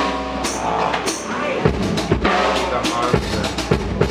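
Live rock band playing, with a drum kit beating a steady rhythm under guitar and bass.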